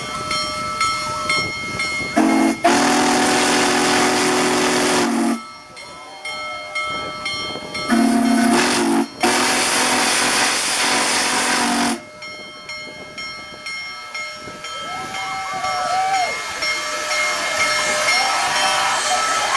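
Union Pacific Big Boy No. 4014, a 4-8-8-4 articulated steam locomotive, blowing its chime steam whistle in two long blasts of about three and four seconds, each briefly interrupted. A steady steam hiss continues between and after the blasts.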